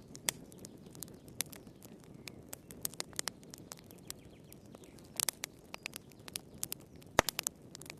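Wood fire crackling in a fireplace: irregular snaps and pops over a low, steady rumble of flame, with a cluster of pops about five seconds in and the sharpest snap near the end.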